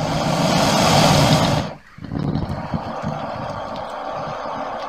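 Crocodile hissing, then after a brief break a low, rough rumbling growl.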